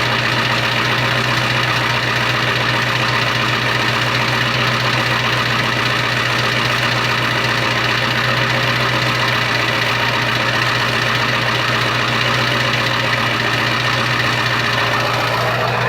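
Ford 7.3 Powerstroke V8 turbo-diesel idling steadily, still cold in the first minutes after a cold start.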